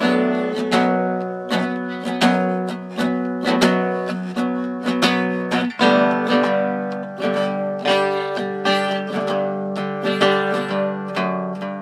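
Acoustic guitar strummed in a steady rhythm with no singing, the chord changing about six seconds in.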